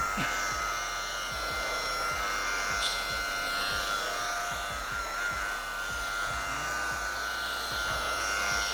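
Electric machine polisher with a wool pad running at a steady speed, a motor whine that holds its pitch, while it buffs dried carnauba wax off fiberglass.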